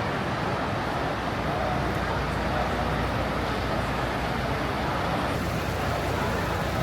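Steady rumble of vehicle engines under a constant background hiss, with no distinct events.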